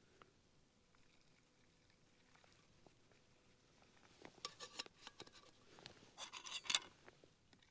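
Quiet handling noises: two short bursts of crackly clicks and rustling, about four and six seconds in.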